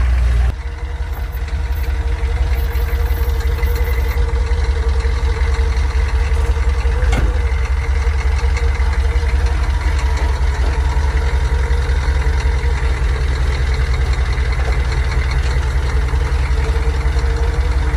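Mini tractor engine running steadily, with a strong low pulse and a steady hum. The sound changes abruptly just after the start, and there is a single sharp click about seven seconds in.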